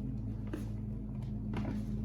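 Cardboard box and packaging being handled while a stuck prop base is worked loose: a couple of short rustling, scraping handling noises, about half a second and about a second and a half in, over a steady low hum.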